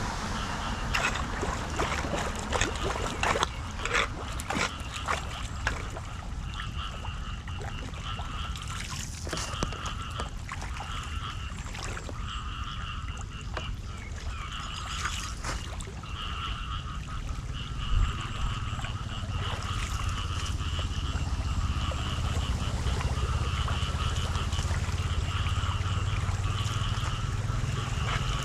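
Floodwater splashing and trickling, with sharp knocks and splashes in the first few seconds over a steady low rumble. A short two-pitched chirping call repeats again and again through the middle and later part.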